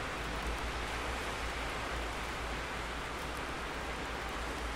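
Steady rain: an even hiss with faint scattered drop ticks and no thunder.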